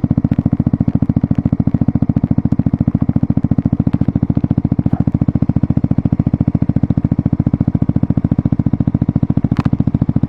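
A 125 cc single-cylinder four-stroke motorcycle engine idling steadily through a Mivv GP Pro aftermarket exhaust, an even, fast pulsing thump. A single sharp click near the end.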